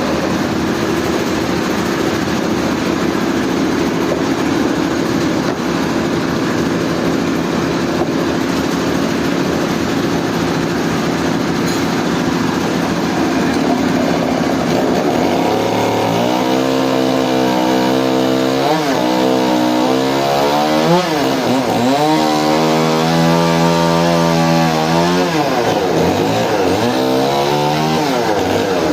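Chainsaw engine running, first as a steady drone, then from about halfway its note repeatedly drops and climbs back as the saw bogs down and recovers in the cut.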